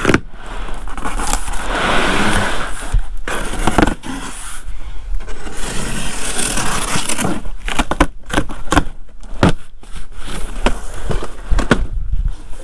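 Cardboard shipping box being opened and unpacked by hand: irregular scraping, tearing and crackling of cardboard and packing, with sharp clicks and knocks throughout.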